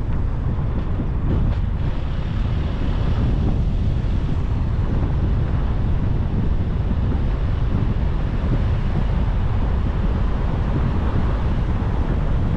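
Steady wind rumble on the microphone together with the road noise of a car driving.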